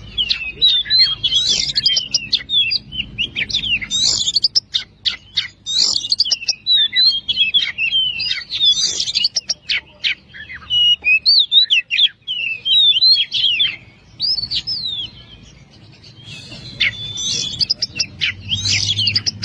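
Oriental magpie-robin (kacer) singing a fast, varied run of chirps, whistles and trills, with a short pause about three-quarters of the way through before it starts again.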